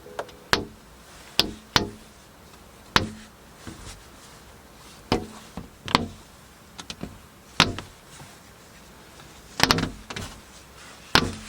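Irregular sharp knocks and clicks, about a dozen, some coming in close pairs.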